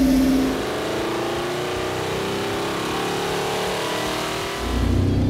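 Ford Racing 347 cubic-inch small-block V8 with a four-barrel carburetor, running on an engine dynamometer and pulling up through the revs under load, its pitch rising steadily over several seconds. The sound grows louder and deeper near the end.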